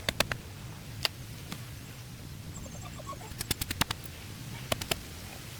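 Quick clusters of sharp clicks or knocks: a few at the start, one about a second in, a rapid run of about six a little past the middle, and three more near the end. A steady low hum runs beneath them.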